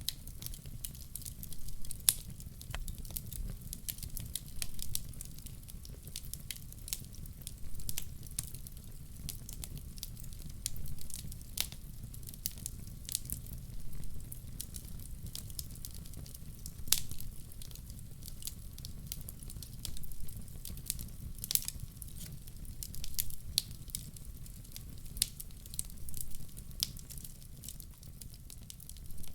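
Wood fire burning in a fireplace: a steady low rumble of flame with irregular sharp crackles and pops, some coming in quick clusters.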